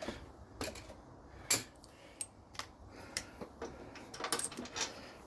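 Irregular metallic clicks and clinks of bolts and tools being handled as the loosened motor mount bolts are taken out, with one louder clink about a second and a half in.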